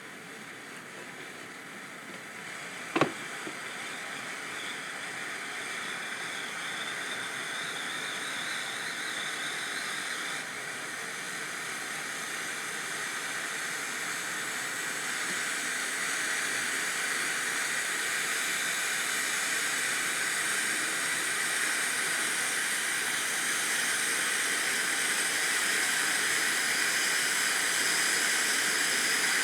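Krakatoa cone fountain firework spraying sparks with a steady hiss that grows gradually louder. A single sharp crack about three seconds in.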